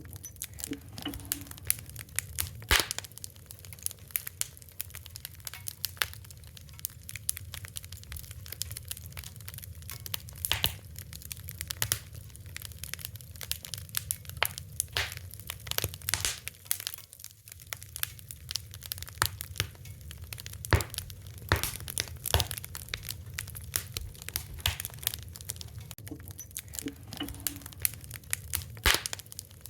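Fire crackling: many irregular sharp pops and snaps over a low steady rumble.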